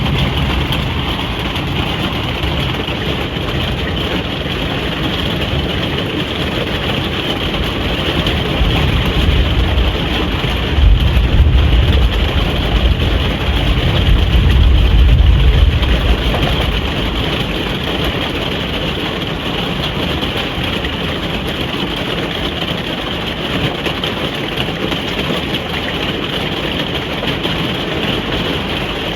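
Steady rain drumming on a caravan roof, heard from inside the caravan. A deep rumble swells for several seconds in the middle, then fades back into the rain.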